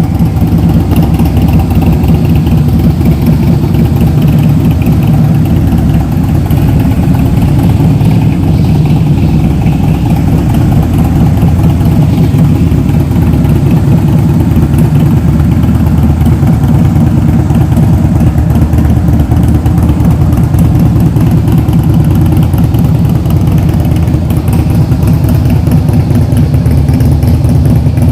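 Harley-Davidson CVO Softail Springer's Twin Cam 110B V-twin engine idling steadily, with a fast, even, deep exhaust pulse and no revving.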